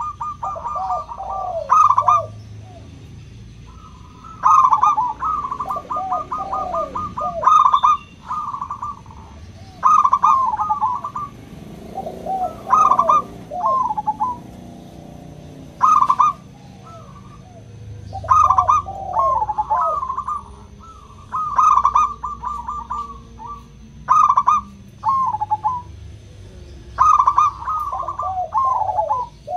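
Zebra doves (perkutut) cooing: repeated phrases of quick stuttering notes with short falling coos, a new phrase every second or two with brief pauses between.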